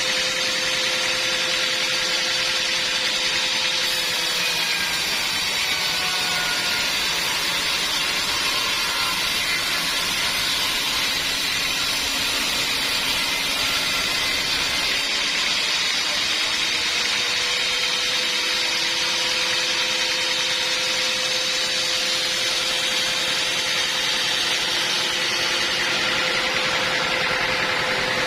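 Sawmill machinery running: a steady mechanical drone with a hissing, whining edge. Its tone drops lower from about four seconds in for roughly ten seconds, then rises back to its former pitch.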